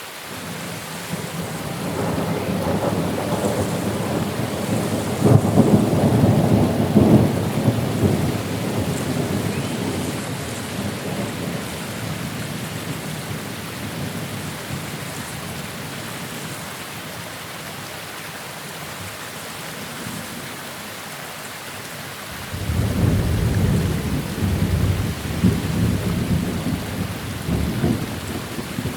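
Steady rain with two long rolls of thunder. The first builds over the first couple of seconds and rumbles away after about ten seconds; the second breaks suddenly near the end.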